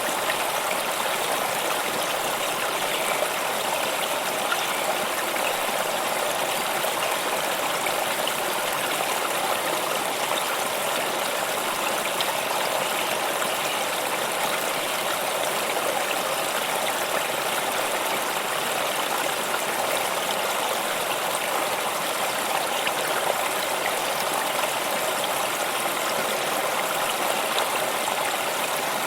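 Flowing stream: a steady, even rush and babble of running water with small splashes, unchanging throughout.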